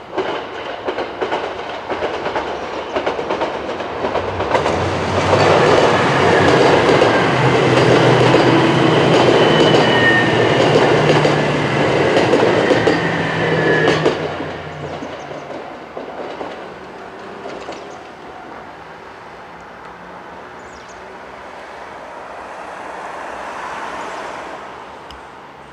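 A diesel limited express train passes at speed through a level crossing. Its engine and wheels on the rails build up, are loudest for about nine seconds with a high, slowly falling whine, then drop away suddenly and fade as it recedes.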